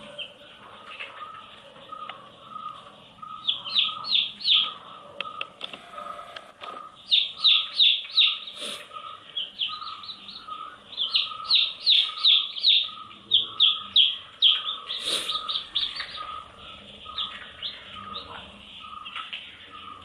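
Baby chicks peeping: runs of quick, high cheeps that fall in pitch, with a softer, lower chirp repeating steadily underneath.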